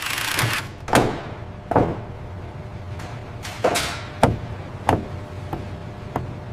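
A series of sharp knocks and clunks, about eight in six seconds, spaced irregularly, typical of parts being handled and set in place during assembly work.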